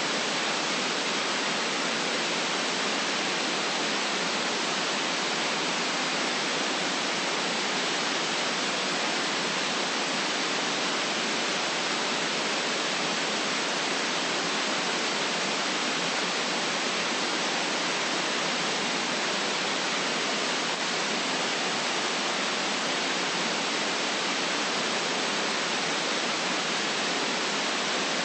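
Steady white noise: an even, unchanging hiss with little deep bass.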